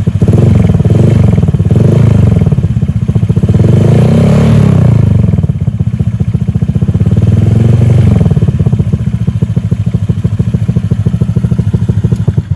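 Honda Vario 125 scooter's single-cylinder engine running through a short stainless header and PDW Racing silencer, with the exhaust note swelling as the throttle is blipped a few times. The owner calls the exhaust sound mellow.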